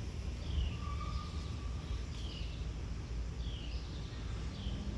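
Outdoor birdsong: a bird gives short, high, falling chirps, roughly once a second, with a brief whistled note about a second in, over a steady low background noise.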